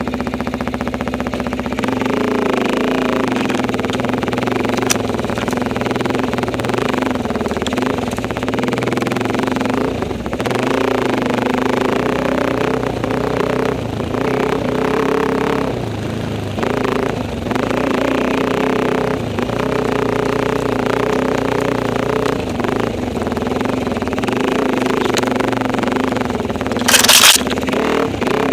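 Enduro motorcycle engine running while the bike is ridden, its revs varying. About a second and a half before the end there is a brief loud rush of noise.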